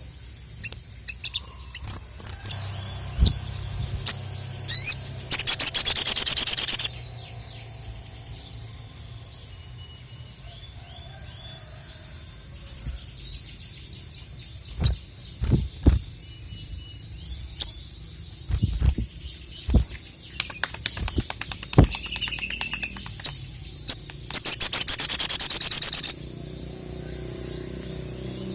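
A sogon (sogok ontong), a sunbird kept as a songbird, calling with scattered short high chirps and two loud, rapid high trills of about a second and a half each, one about five seconds in and one near the end. A few sharp thumps fall in between.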